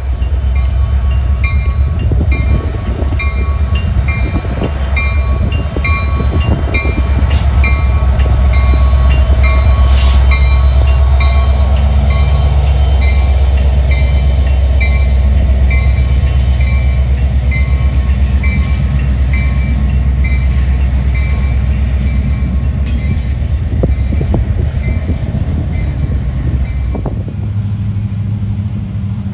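Train passing close by with a heavy, steady low rumble, and a bell ringing about twice a second that stops near the end.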